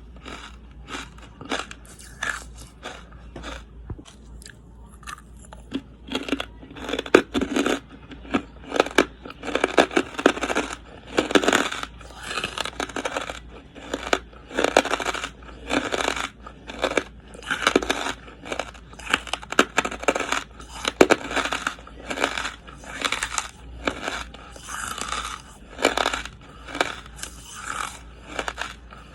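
Close-miked crunching as a person bites and chews charcoal: a run of short, dry crunches, about one or two a second, softer for the first few seconds and then louder.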